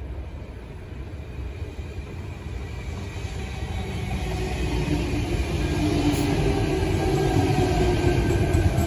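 A Sydney Trains Tangara electric suburban train approaches and runs past on the near track. Its rumble grows steadily louder from about three seconds in, with a steady humming tone joining in the second half.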